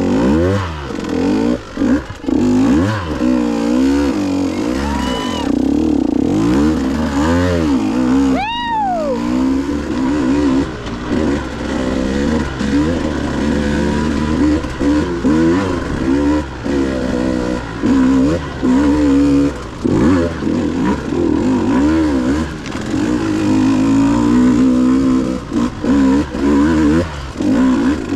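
KTM 150 two-stroke enduro bike engine revving up and down over and over as the throttle is worked, with one sharp, high rev about a third of the way in.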